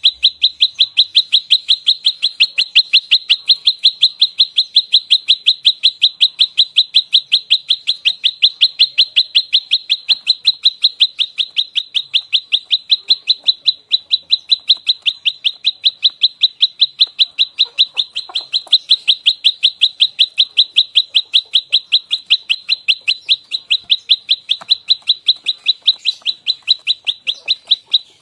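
Prenjak lumut songbird giving its rapid fighting call, a fast unbroken string of sharp, high chipping notes at about four to five a second. It is the dense 'nembak rapat' burst used as a lure and training call.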